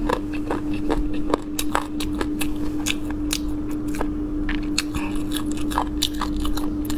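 Chewing and biting meat off spicy cumin pork bones, with many short crisp crunches of cartilage. A steady low hum runs underneath.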